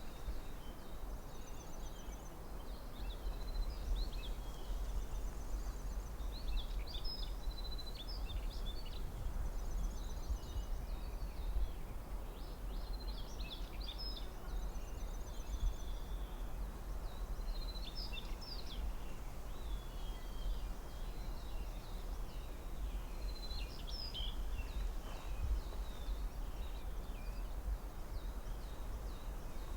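Forest ambience: small birds calling in short chirping phrases and quick high trills every few seconds, over a steady low background rumble.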